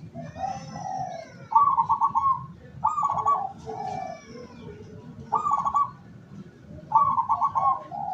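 Zebra dove (perkutut) cooing: a run of phrases, each a quick rattling trill of notes followed by a few lower, softer coos, repeated about every one to two seconds.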